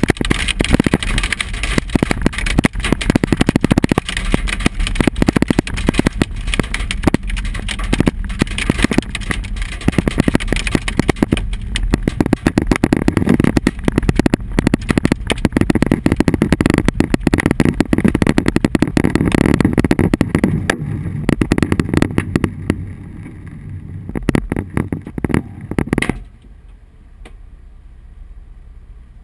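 Hailstones drumming on a vehicle's roof and windshield, heard from inside: a dense, continuous clatter over a low rumble. The clatter cuts off suddenly about 26 seconds in, leaving a quieter steady hum.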